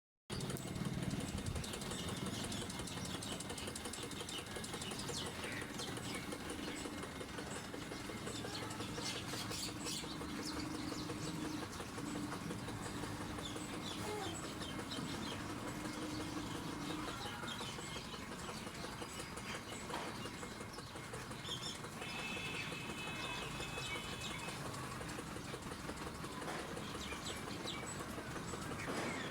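Farmyard ambience: a steady background hiss with scattered clicks and occasional bird and chicken calls, one held call lasting about two seconds near the 22-second mark.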